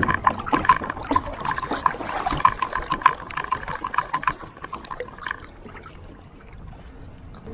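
Irregular clicks and knocks of handling gear on a fishing kayak, over a steady high whine that stops about five seconds in.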